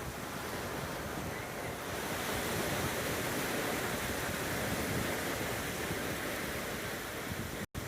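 Gentle ocean waves washing onto a beach, a steady surf that swells a little from about two seconds in. The sound drops out for an instant near the end.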